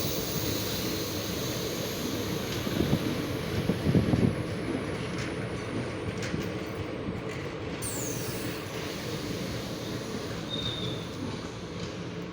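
Indian Railways train running on the track: a steady rumble of wheels on rails, with a few heavier knocks about three and four seconds in and brief high squeals later on.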